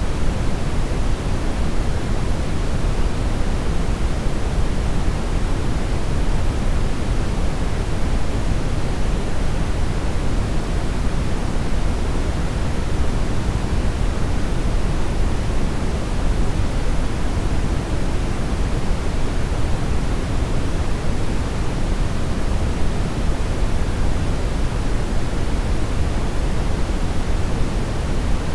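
Steady synthetic brown noise: an even, unchanging rushing hiss weighted heavily toward the low end.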